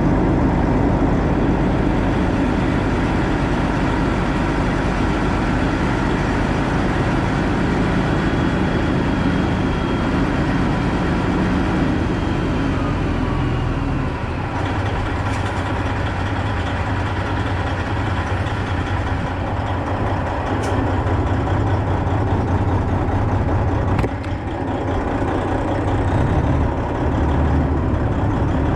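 Semi-truck diesel engine running steadily, its low rumble shifting in pitch about halfway through, with a short click near the end.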